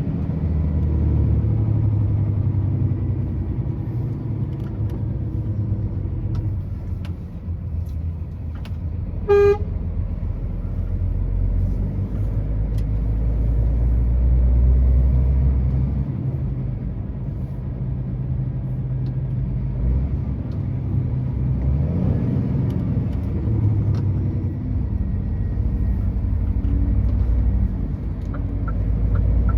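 Truck engine running steadily on the road, its low drone rising and falling gently, with one short horn toot about nine seconds in.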